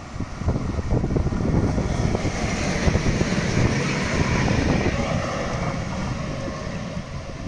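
A train passing close by, a rushing, rumbling noise that swells over the first couple of seconds and slowly fades, with wind buffeting the microphone.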